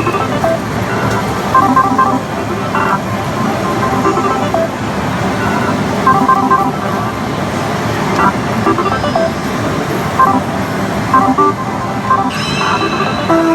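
Din of a pachislot parlor: a steady roar of many slot machines with their short electronic beeps and jingles over it. Guitar music comes in near the end.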